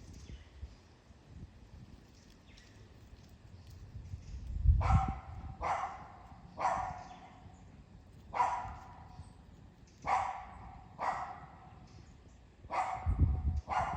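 A dog barking about eight times, starting about five seconds in, at uneven gaps of about a second, with low rumbles under the first and last barks.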